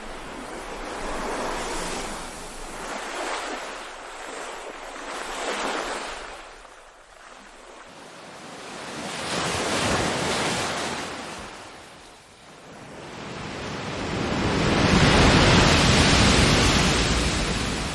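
Ocean surf: waves wash in and draw back in slow swells. Several small surges come in the first six seconds and another about ten seconds in, and the loudest, fullest wave breaks near the end.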